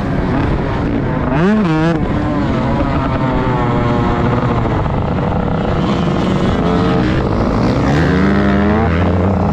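Motocross bike engine being ridden hard, its pitch rising and falling with the throttle: a quick blip about a second and a half in, a stretch of steady running, and a climbing rev near the end.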